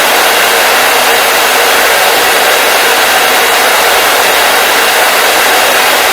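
Hair dryer blowing steadily, a loud, even rushing hiss with no change in pitch or level.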